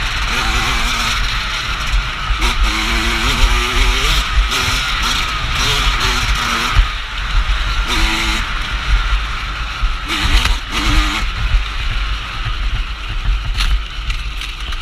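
Off-road dirt bike engine under way, its pitch climbing and dropping several times as the throttle is opened and closed, with heavy wind buffeting on the microphone.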